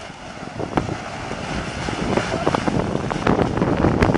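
Plastic polyethylene tarp flapping and snapping in strong wind, with wind buffeting the microphone. The sharp snaps come thicker and faster in the second half.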